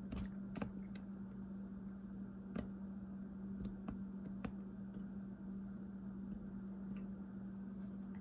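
Ceiling fan light-kit pull-chain switch being pulled, with about nine irregular sharp clicks, three of them in the first second, over a steady low electrical hum.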